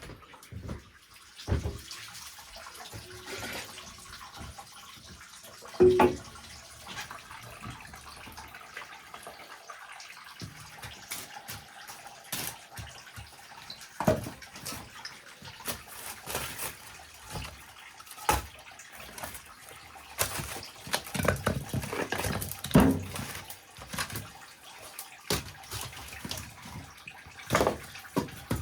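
Liquid splashing and sloshing in a vessel, with scattered knocks and clatters of handled containers.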